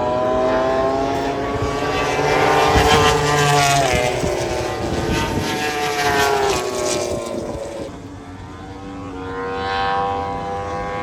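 Several engines passing by together, their pitch rising as they approach and dropping as they go past. The loudest pass peaks a few seconds in, it fades about eight seconds in, then another engine sound swells near the end.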